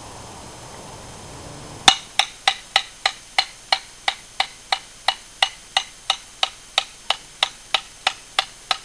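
A hammer striking an anvil face in a steady run of about twenty light blows, roughly three a second. Each blow gives a short bright ring. The hammer bounces back off the anvil, showing the anvil's lively rebound on its stump. The first blow, about two seconds in, is the loudest.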